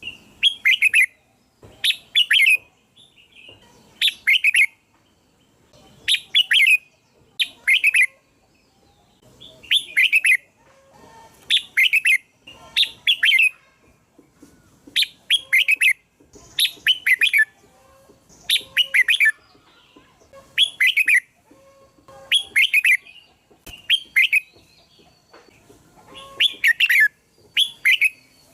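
Red-whiskered bulbul calling: short, loud, bright chirping phrases repeated about every one to two seconds, often in quick pairs.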